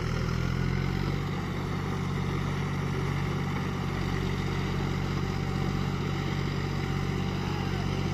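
John Deere 5050D tractor's three-cylinder diesel engine running steadily, its pitch shifting up slightly about a second in.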